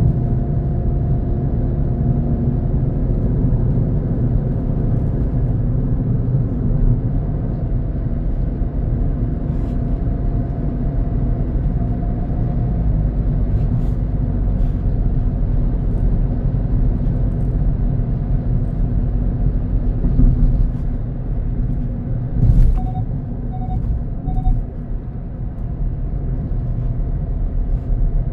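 A car driving, its engine and tyres on the road making a steady low rumble. Three short beeps about three-quarters of the way through.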